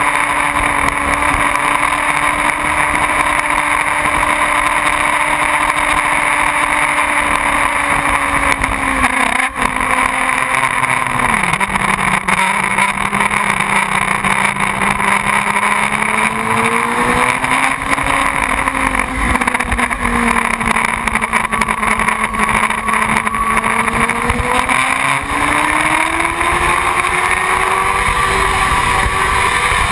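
Motorcycle engine running steadily under way, with a rush of wind over the microphone. The engine's pitch drops sharply about eleven seconds in, then wavers and climbs slowly near the end.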